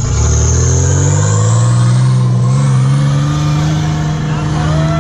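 Nissan Z car's engine revved hard through a loud aftermarket exhaust and held at high rpm, its pitch rising at the start and then holding nearly steady.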